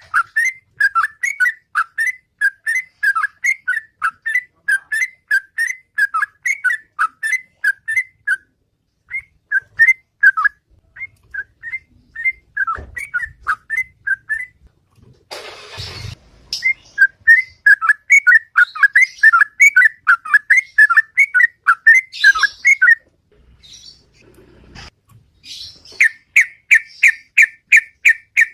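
Yellow-vented bulbul (trucukan) singing its loud 'ropel' song: quick runs of short whistled notes, broken by brief pauses. A short rustling noise comes about halfway through, and a fast, even string of notes near the end.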